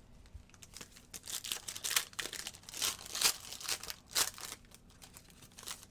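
Plastic wrapper of a trading card pack being torn open and crinkled, in a run of irregular crackles lasting a few seconds.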